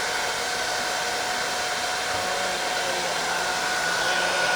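Handheld hot-air blower running steadily: a continuous rushing hiss with a steady motor whine, used to warm vinyl decals so they lie flat.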